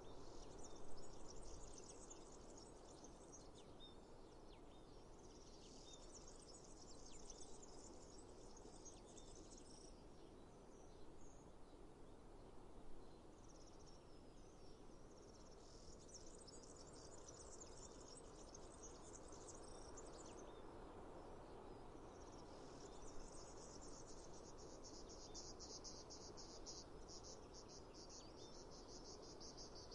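Faint insects trilling in several high-pitched bouts of a few seconds each, the last one rapidly pulsed, over a soft, even low background rush.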